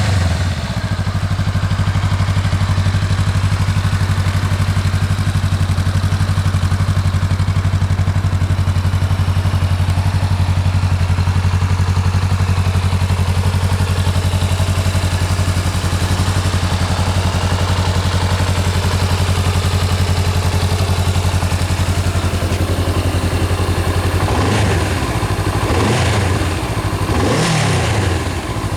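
Honda Rebel motorcycle engine through its stock exhaust, idling steadily. Near the end the throttle is blipped three times in quick succession, each rev rising and falling back to idle.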